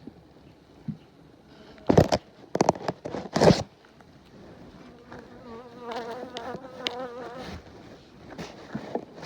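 Honeybees buzzing close to the microphone, a wavering hum that swells about halfway through. Before it, a few loud rustling, scraping handling noises.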